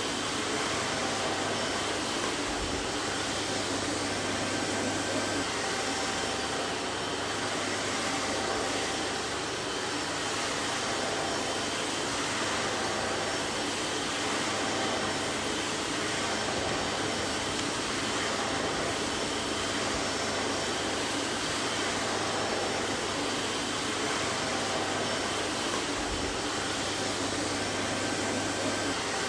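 Vacuum cleaner running steadily: an even rushing of air with a steady low motor hum and a faint high whine.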